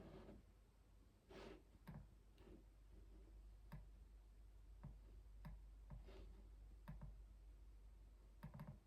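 Computer keyboard keystrokes, slow and irregular: about a dozen soft, faint key clacks spaced a fraction of a second to over a second apart.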